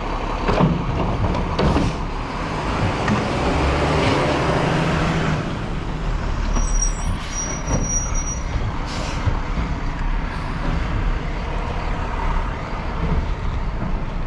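A garbage truck's diesel engine running nearby, a steady low rumble with a rush of noise, a few knocks and a brief high squeal in the middle.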